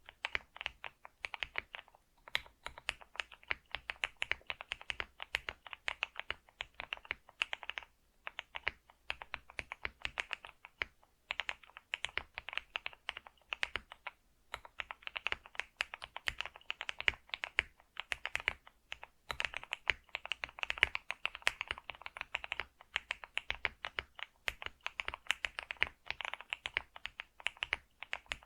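Computer keyboard being typed on quickly and continuously: rapid key clicks with a few short pauses.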